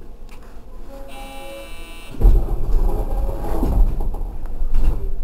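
Rubber-tyred Osaka New Tram 100A-series train running on its elevated guideway: a low rumbling ride noise that turns loud about two seconds in. Just before, a steady electronic tone sounds for about a second.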